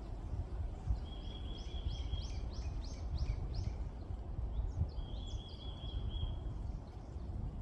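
Songbirds singing: a dry trill at one pitch, heard twice, with a run of short falling notes between and over it. Beneath them, wind rumbling on the microphone, the loudest sound throughout.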